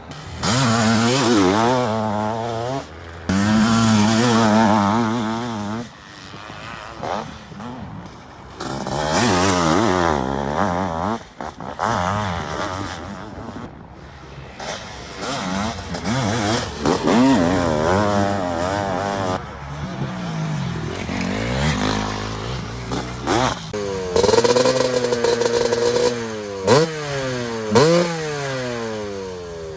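Older two-stroke motocross motorcycles revving hard, the engine pitch rising and falling through gear changes over and over, with abrupt jumps between clips.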